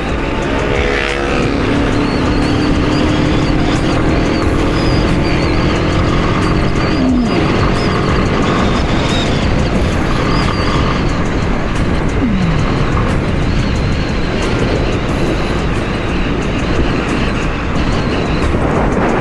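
Motorcycle being ridden, with heavy wind rush on the microphone over the engine. The engine note drops sharply about seven seconds in, and again around twelve seconds, as the rider eases off the throttle.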